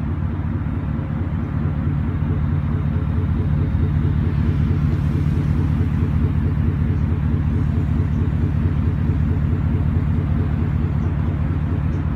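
Mercedes-Benz W124 500E's 5.0-litre V8 exhaust running steadily with a low, even pulsing, a little louder from about four seconds in.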